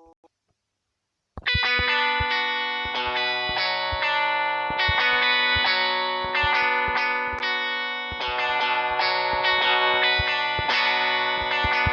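Plucked guitar notes played through effects, starting after about a second of silence and ringing on in a dense sustained wash, with many sharp percussive strikes scattered through.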